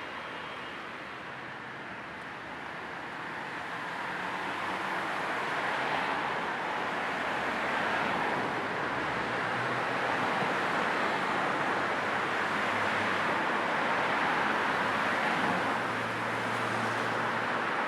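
Car-ride road noise blended with a low white-noise hiss, steady and even. It grows louder about four seconds in.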